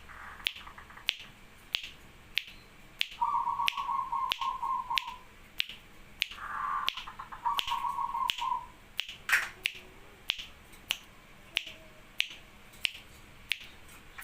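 Zebra dove (perkutut) giving its rolling, stuttering coo twice, each phrase about two seconds long. Throughout there are sharp, regular ticks about one and a half per second, with one louder knock about nine seconds in.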